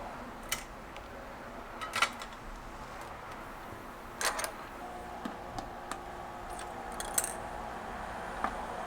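Scattered light clicks and taps of small metal tools being handled at a microsoldering bench, a few at a time. A faint steady hum starts about halfway through and keeps going.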